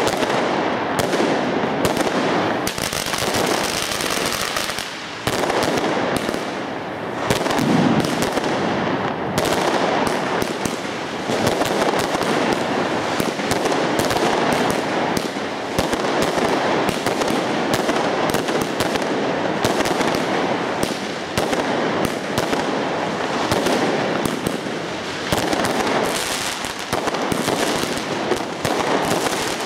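Fireworks going off in a dense, unbroken barrage of crackling and bangs, with aerial bursts overhead.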